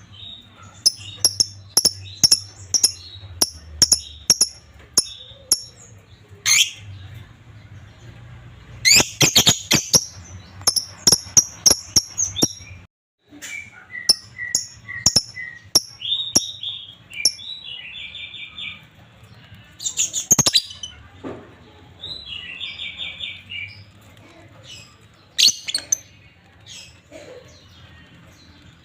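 Lovebirds chirping: a quick series of sharp, high chirps, then a burst of harsh, crowded calls, and later rapid buzzy trills mixed with single chirps. The sound cuts out briefly near the middle.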